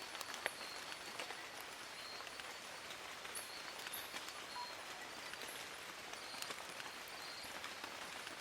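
Steady rain falling on forest leaves, a continuous hiss with scattered sharp ticks of single drops. Faint, brief high chirps come through a few times.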